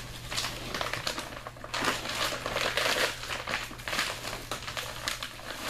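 Plastic packaging of a Blizzard Heat Blanket crinkling and rustling in irregular bursts as the inner bag is opened at its tear notch and the blanket is handled.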